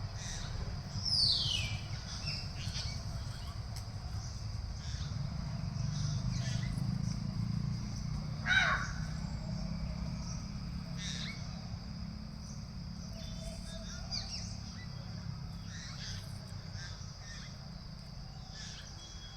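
Birds calling: a handful of short, harsh calls falling in pitch, the loudest about a second in and about eight seconds in, with fainter ones later. A steady high hum and a low rumble run underneath.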